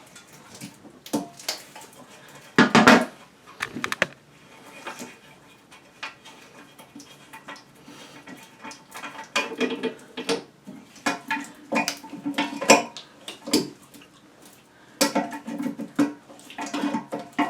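Irregular clicks, clanks and rattles of a toilet's water supply hose being unscrewed from the fill valve under the tank. The loudest clatter comes about three seconds in, with busier bursts of handling later on.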